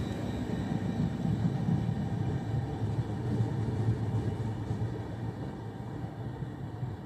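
Double-deck regional passenger train rolling away along the platform: a low, steady rumble that fades over the last couple of seconds as the tail end recedes.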